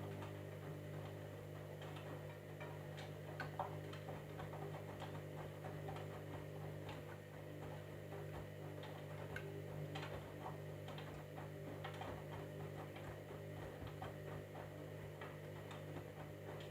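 Candy washing machine's drum motor running with a steady hum as the drum turns, with many irregular light clicks and ticks from inside the drum.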